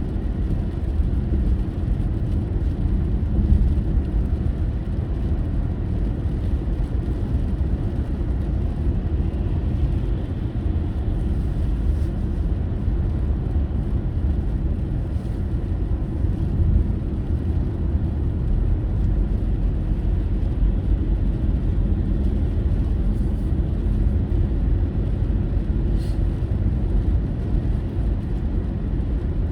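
Steady low rumble of a car driving: engine and tyre noise with no sharp changes.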